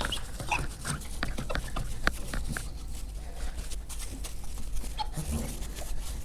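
Dry napkin wiped over the glass of a stove-fireplace door: rubbing with a scatter of short squeaks and light taps.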